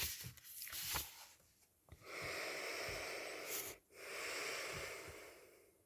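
A man drawing two long, audible breaths, one after the other, after a few faint clicks.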